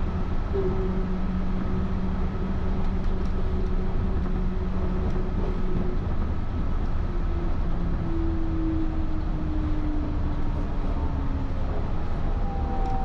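Interior running noise of a Yurikamome rubber-tyred automated guideway train: steady rumble with a motor whine. In the second half the whine falls in pitch as the train slows for Aomi station.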